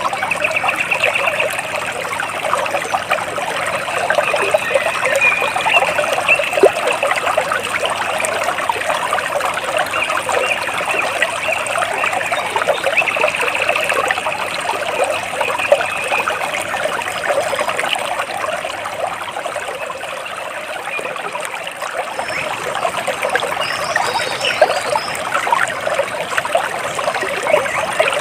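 Water splashing and trickling steadily, like a small stream or cascade. A few faint bird chirps come in near the end.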